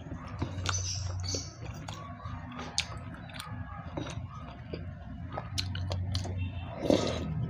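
A person chewing food close to the microphone, with irregular sharp mouth clicks and small wet bites.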